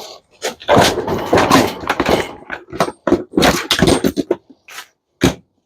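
Rattling and irregular knocks of dishwasher parts being pried and pulled apart by hand for scrap: a dense run of clatter, then a few separate strikes, with one sharp knock near the end.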